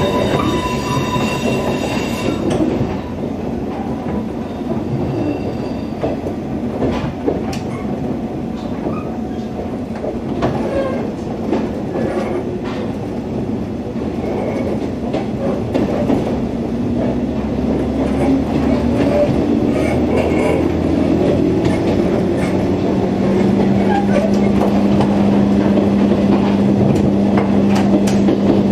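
JR 103 series electric train heard from inside a motor car while running: a steady rumble with wheel clatter and clicks. About two-thirds of the way in, the traction motor's hum rises in pitch and then holds steady, a little louder, as the train picks up speed.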